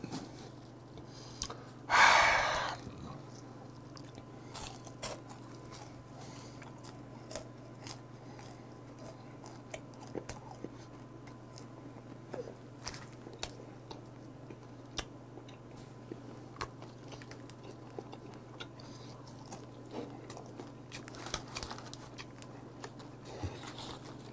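A person chewing dried pollock jerky (meoktae), with small crunches and clicks scattered throughout. There is a short, loud rush of noise about two seconds in.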